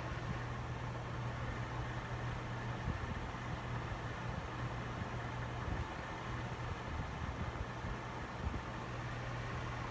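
Vintage Eastern box fan running on its low speed: a steady rush of air over a constant low motor hum.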